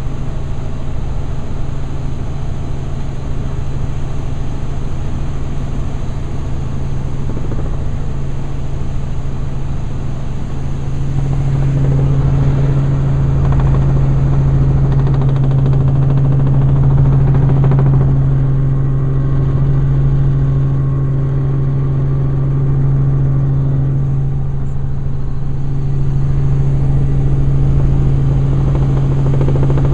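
Helicopter in flight heard from on board: a steady drone of rotor and engine with a strong low hum, growing louder about eleven seconds in.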